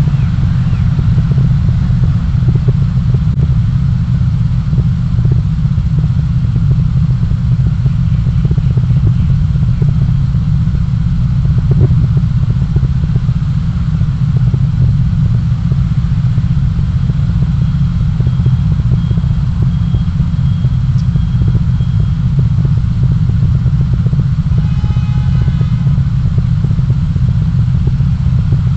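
A motor vehicle moving through city traffic, with a steady loud low rumble of engine and road noise. Near the end comes a short run of rapid pitched beeps.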